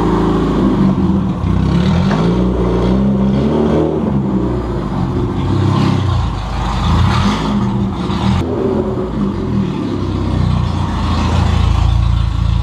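Belt-driven VAZ-2105 four-cylinder engine, newly converted from carburettor to fuel injection, running and revved by hand at the throttle, its speed rising and falling several times.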